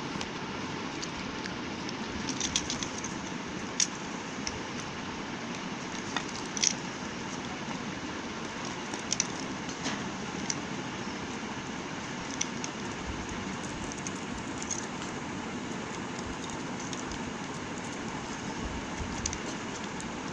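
Bars of soap being handled, with sharp, brief clicks and taps every second or two over a steady background hiss and rumble.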